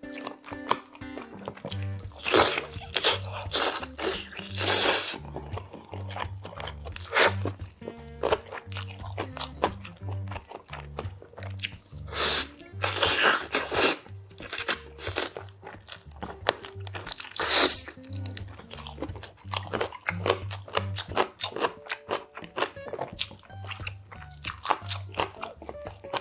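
Close-miked eating sounds of a man chewing and biting into boiled samgyetang chicken, in repeated loud bursts, over background music with a steady bass line.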